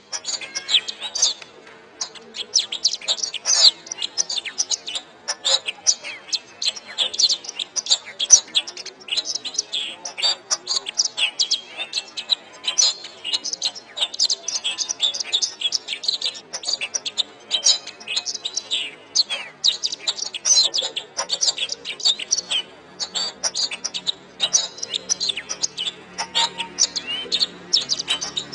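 Canary singing continuously, a fast, dense stream of chirps, trills and rolling phrases. A low steady hum comes in under it near the end.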